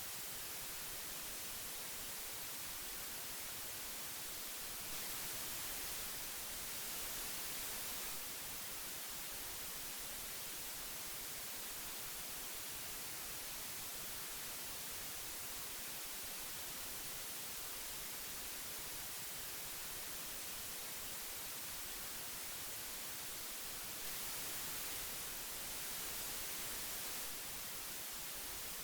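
Steady hiss of old magnetic tape, an even high-pitched noise with no tones, swelling slightly louder twice for a few seconds.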